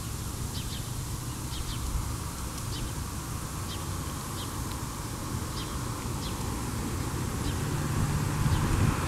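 Birds giving a dozen or so short, high chirps, some in pairs, over a low steady vehicle rumble that swells near the end.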